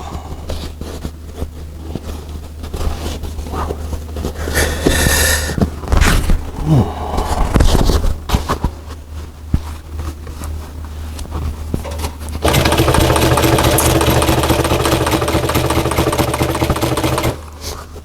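Sewing machine stitching material: about two-thirds of the way in it runs steadily for about five seconds, then stops suddenly. Before that there are scattered clicks and rustling as the material is handled and its tabs are opened under the needle, over a constant low hum.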